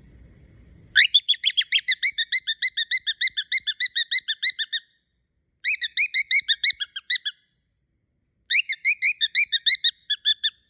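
Cockatiel calling in rapid repeated chirps, about eight a second, in three bursts with short pauses between them.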